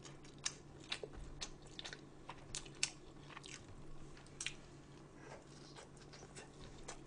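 A person chewing food close to the microphone, with faint crunching and irregular short mouth clicks.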